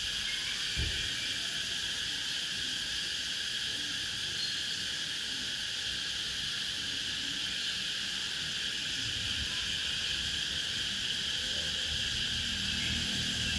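Cicadas buzzing steadily in chorus, a constant high, unbroken sound. A brief low thump comes about a second in, and a low rumble builds near the end.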